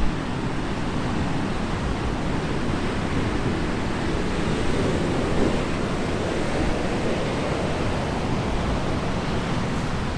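Large ocean waves breaking on a beach in a continuous, loud rush of surf, with wind buffeting the microphone.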